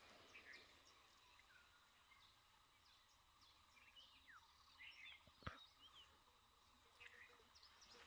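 Faint, scattered chirps and short whistled calls of small birds over near-silent hillside quiet, with a single sharp tap about five and a half seconds in.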